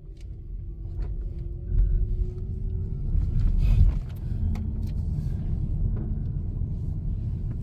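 A car driving: low engine and road rumble that grows louder over the first two seconds or so.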